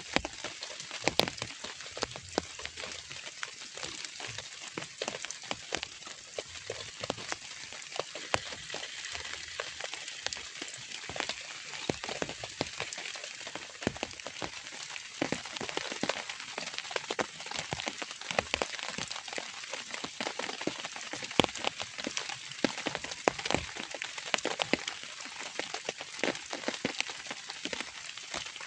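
Light rain falling steadily, with many separate drops ticking on a surface. A few louder drop hits stand out, about a second in and again about two-thirds of the way through.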